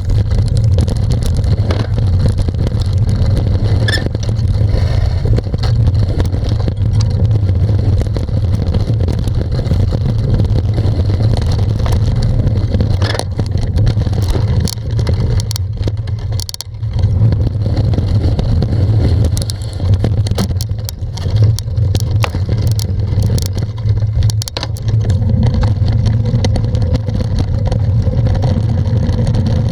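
Wind buffeting the microphone of a camera riding on a moving bicycle: a loud, steady low rumble, with frequent clicks and rattles as the bike goes over bumps. It eases briefly about halfway through.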